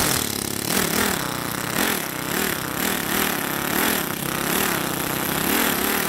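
Motorcycle engine running steadily, its pitch wavering up and down unevenly.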